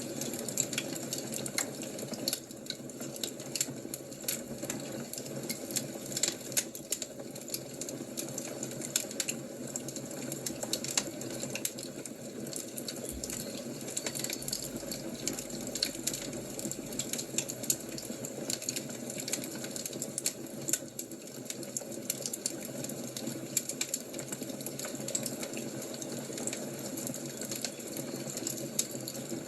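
Wood fire crackling steadily: many small irregular pops and snaps over a constant low rush.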